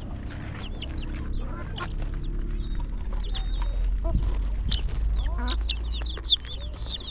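Birds calling: many short, scattered chirps over a low steady rumble.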